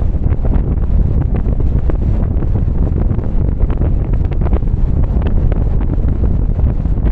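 A car driving on a wet road in the rain: a steady low rumble of road and wind noise, with irregular small ticks throughout.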